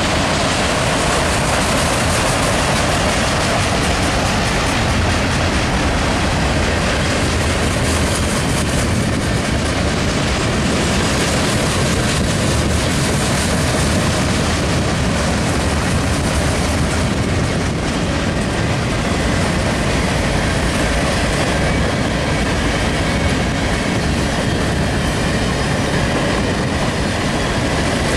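A freight train's cars (autoracks, boxcars and covered hoppers) rolling steadily past at close range: a loud, continuous rumble of steel wheels on rail.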